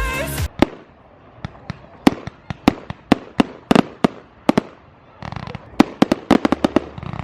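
Fireworks going off: a string of sharp, irregular bangs and cracks, which come thick and fast in a quick volley towards the end.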